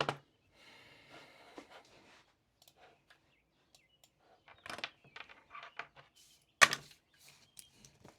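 Handling noises at a desk: scattered clicks and knocks, the loudest near the start and about two-thirds of the way through, with a stretch of soft rustling like paper being moved early on.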